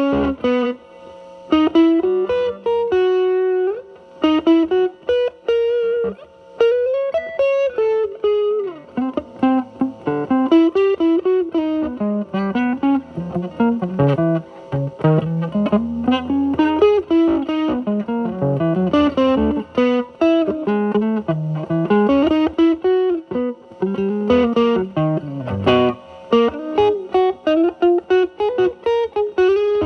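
Electric guitar, a single-coil Telecaster through a Mosrite Fuzzrite clone pedal and a Marshall Valvestate's drive channel, playing improvised single-note lead phrases. The guitar's volume is rolled back to clean up the fuzz, so the notes sound fairly clear with only light grit.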